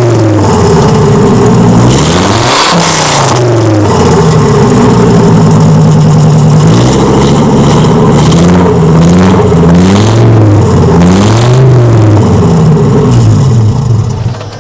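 Audi 2.3 NF inline five-cylinder engine, running without an exhaust, revved repeatedly: the revs rise and fall in a series of blips, with a longer steady hold near the middle. The sound drops away sharply near the end.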